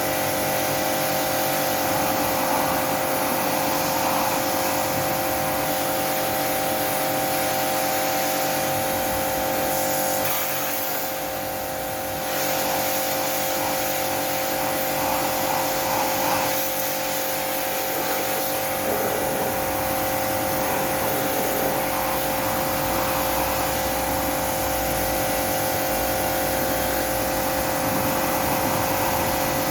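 Portable pressure washer running: a steady machine hum and whine over a hiss, which drops briefly about ten seconds in before picking up again.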